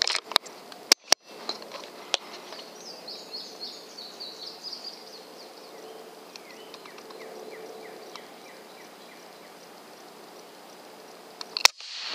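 Songbird singing in woodland: runs of quick, descending chirps, first high and then a lower series, over a faint outdoor background. A few sharp clicks come in the first second or two, and a single sharp crack comes near the end.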